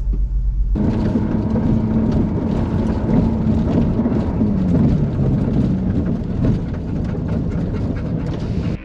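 Off-road vehicle driving on a rough track: a dense, loud rumble of engine and road noise that starts suddenly under a second in, after a steady low hum.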